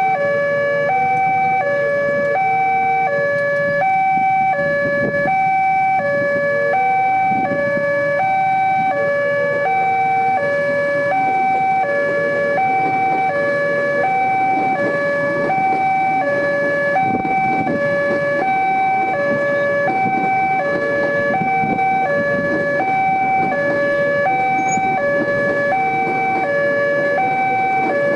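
Railway level-crossing warning alarm sounding continuously: an electronic two-tone signal alternating high and low about once a second, meaning a train is approaching and the barriers are down. Road traffic noise runs underneath.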